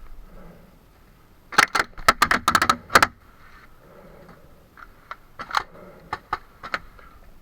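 Paintball markers firing: a rapid string of about ten sharp shots, then several scattered single shots a couple of seconds later.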